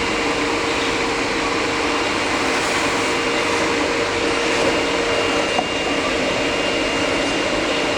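Air-cooled spindle of a large CNC wood router running steadily, a constant whine over an even hiss as it machines a wooden door.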